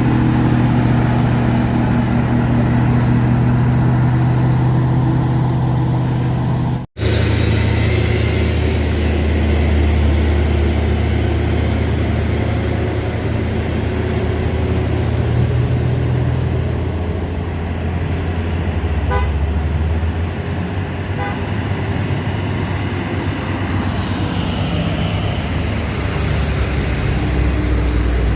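Diesel truck engine running under load with a steady low drone, and a vehicle horn sounding. The sound cuts out for an instant about seven seconds in, then the engine continues.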